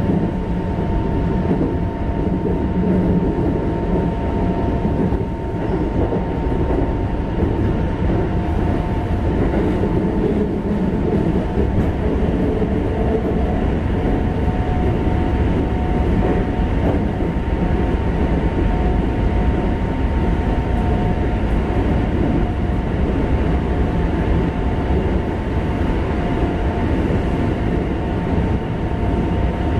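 Keikyu 1500 series train car running at speed between stations, heard from inside the car: a steady rumble of wheels on the rails with a thin, steady high hum over it.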